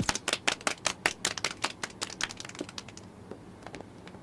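Rapid, irregular clicking of many press camera shutters, several a second, thinning out and dying away about three seconds in.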